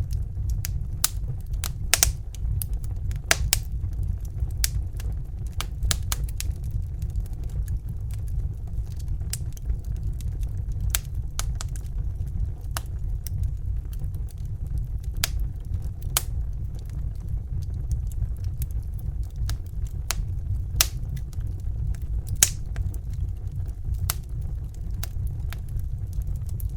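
Fire crackling, with irregular sharp pops and snaps, a few of them louder, over a steady low rumble.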